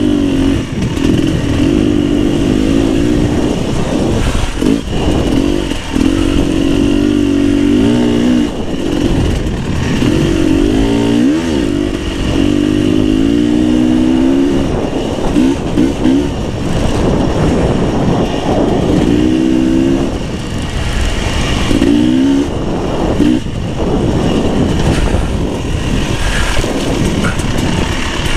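Beta 300 RR two-stroke enduro motorcycle engine running while riding, its note rising and falling again and again as the throttle is opened and closed.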